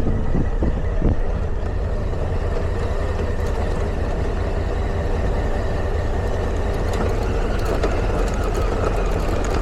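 Motorcycle riding downhill on a dirt pass road: steady engine and road noise, with a few knocks in the first second.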